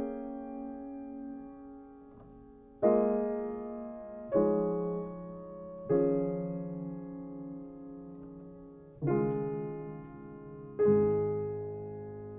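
Slow solo piano playing sustained chords, each struck and left to ring and fade, five new chords in all, the last one with a low bass note near the end.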